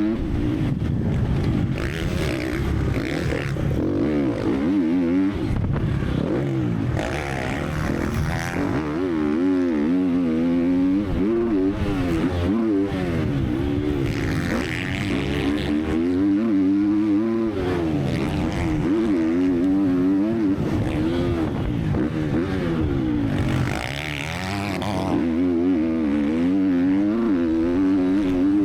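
Triumph TF 250-X four-stroke single-cylinder motocross engine being ridden hard around a dirt track, revving up and dropping back over and over as the rider accelerates, shifts and brakes, with a brief easing of the throttle near the end.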